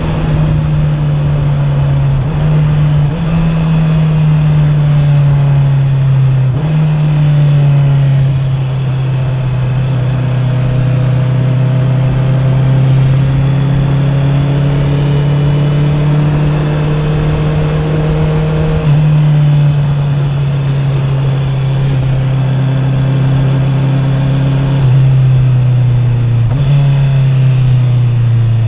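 Honda CB650R's inline-four engine running through an Akrapovic exhaust while riding, heard from the rider's seat. The engine note sags and climbs slowly with the throttle and jumps abruptly in pitch several times as gears are changed, over steady wind and road noise.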